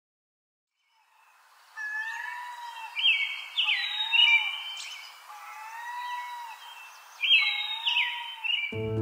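Birds calling and singing in short repeated phrases over a steady outdoor hiss, starting about a second in. Music with steady held tones comes in just before the end.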